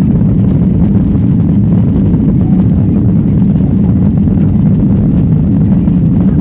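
Cabin noise of a Boeing 737-800 heard from the rear row: a loud, steady low rumble from its CFM56 jet engines and airflow during the takeoff.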